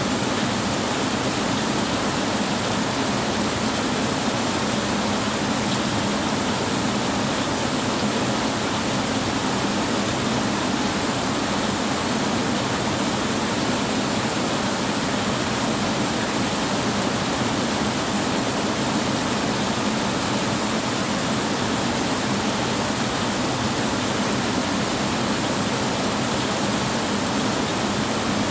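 Heavy rain falling steadily, an even unbroken hiss with no thunder claps.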